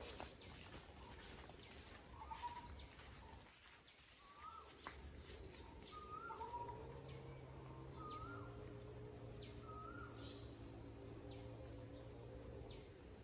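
Forest ambience: insects drone steadily at a high pitch while a bird repeats a short call about every two seconds, five times. A low steady hum joins about halfway through.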